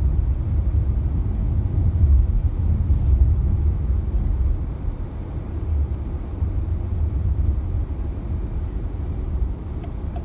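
Steady low rumble of a car driving, the road and engine noise heard from inside the cabin, easing a little about four and a half seconds in.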